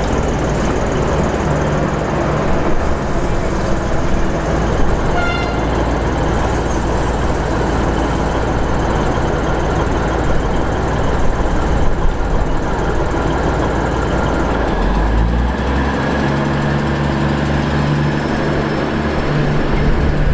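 Diesel passenger train running through the station with a steady, loud rumble. There is a brief high tone about five seconds in, and the engine hum changes about three quarters of the way through.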